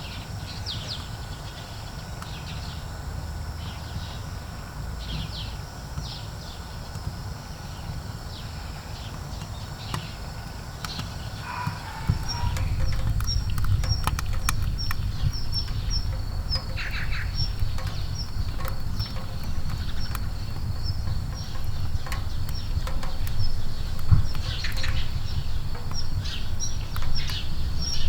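Small birds chirping repeatedly over a low rumble, with scattered faint crackles. The rumble grows louder about twelve seconds in.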